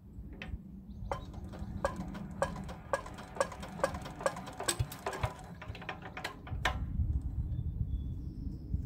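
Petter AC1Z single-cylinder diesel engine running with a clatter of sharp knocks, about three or four a second, over a low rumble that grows heavier about six and a half seconds in.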